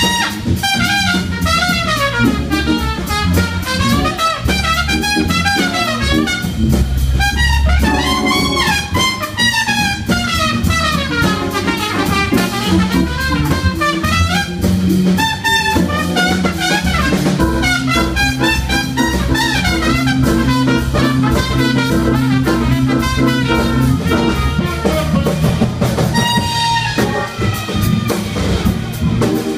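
Live jazz-funk band of tenor saxophone, trumpet, Hammond organ and drum kit playing an upbeat groove. The horns play bending melody lines over a steadily stepping organ bass line and regular drum hits.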